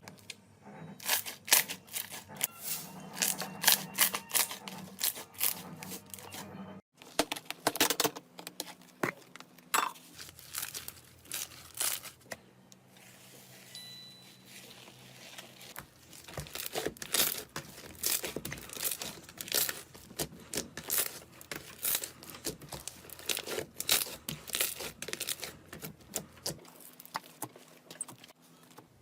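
Slime being squeezed and poked by hand, giving dense, irregular crackling and sticky popping clicks, with a brief gap about seven seconds in.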